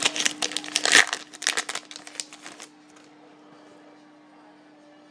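Foil trading-card pack wrapper crinkling and being torn open by hand, with dense crackling that stops about halfway through.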